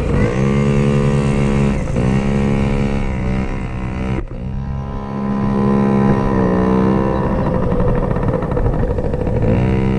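Small dirt bike engine running, revved and falling back to a steady idle several times, with a brief dip in the sound about four seconds in.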